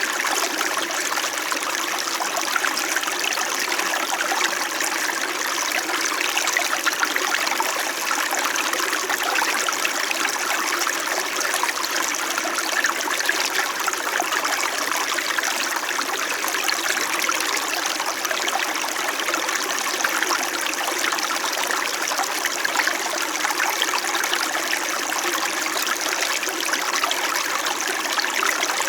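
A small mountain stream in winter flowing and burbling steadily over stones, an unbroken rushing and trickling of water.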